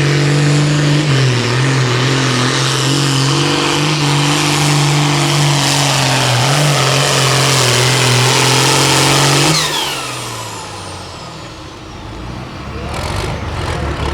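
Hot farm pulling tractor's diesel engine running flat out under load as it pulls the sled, its pitch steady apart from brief sags about a second in and around six seconds in. About nine and a half seconds in the throttle is cut and the engine drops away suddenly, leaving a falling whine as it winds down.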